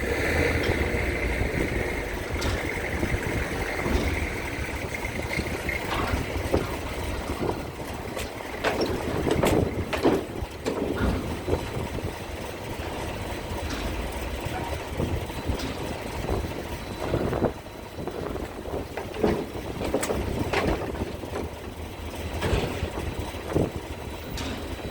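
Heavy engines rumbling steadily, with irregular knocks and clanks scattered throughout. A thin high whine sounds over the first few seconds and fades.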